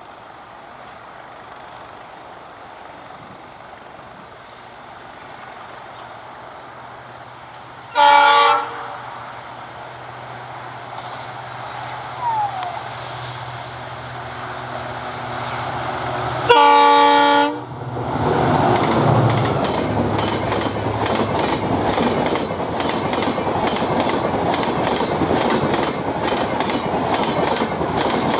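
Indian Railways diesel locomotive approaching with a low engine hum, sounding its horn twice: a short blast about 8 seconds in and a louder, longer blast of about a second near the middle. The train then passes, with a loud rush and steady clickety-clack of wheels over rail joints.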